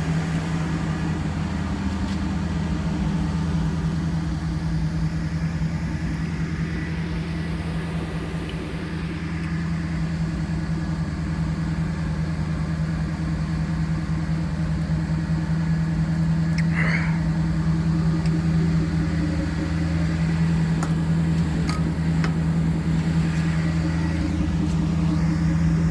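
Pontiac Firebird's 305 small-block V8 idling steadily while warming up after a cold start, running rich.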